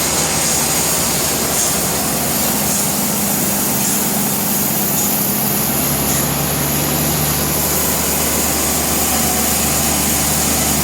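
Sawmill machinery running steadily, a loud engine-driven din with a low hum that changes pitch slightly about halfway through.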